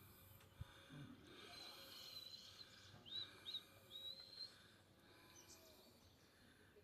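Faint birdsong: a series of high whistled notes, with two short upward-sweeping chirps in the middle, over low outdoor ambient noise.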